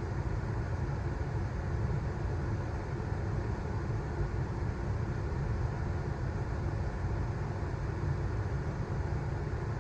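Steady low rumble of a Queensland Rail electric suburban train running along the track, heard from inside the carriage.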